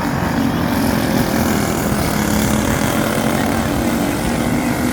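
Speedway racing motorcycles, single-cylinder engines, running hard around the track. The sound is loud and continuous, with the engine notes wavering in pitch.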